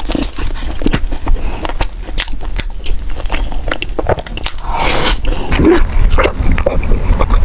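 Close-miked chewing of soft pork floss bread: wet mouth clicks and lip smacks, with a few louder smacking bursts around five seconds in.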